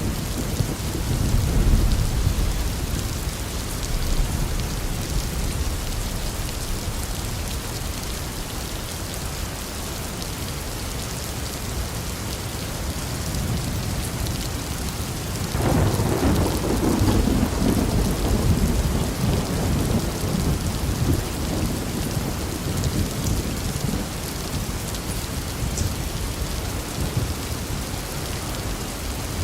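Steady heavy rain hissing on surfaces with thunder rumbling low under it; about halfway through a louder thunderclap breaks in suddenly and rolls on for several seconds.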